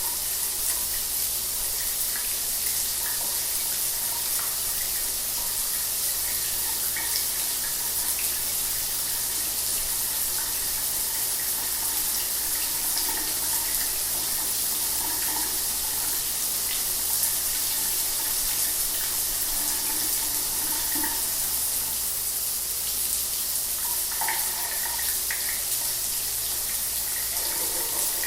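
Shower water running steadily: a continuous hiss of spray falling and splashing.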